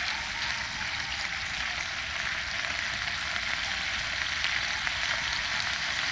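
Chopped chicken livers in spiced masala sizzling steadily in a non-stick frying pan while a silicone spatula stirs them.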